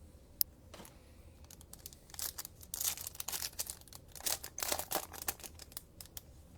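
Crinkling and rustling as a foil trading-card pack wrapper is opened and the cards are handled, with one sharp click about half a second in and two spells of rustling in the middle.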